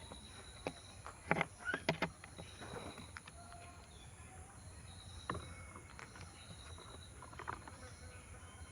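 A flock of birds feeding, with a cluster of sharp taps and short bird calls about a second in and a few more later. A steady high-pitched insect drone runs behind them.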